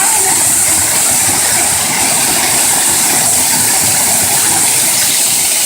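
Waterfall's falling water rushing loud and steady.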